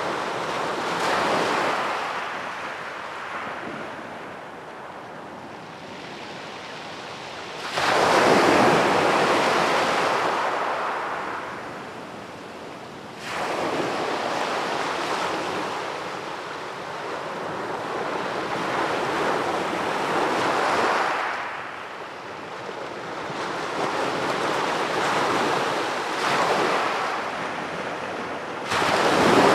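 Sea waves breaking on a beach and washing up the shore. Breakers come in surges, with sudden loud arrivals about 8 and 13 seconds in and again near the end, each fading out over several seconds.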